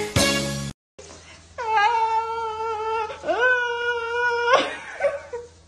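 Household pet giving two long drawn-out calls, each about a second and a half, held at a steady pitch after an upward slide at the start; a moment of music ends just before them, and a short noisy rustle follows.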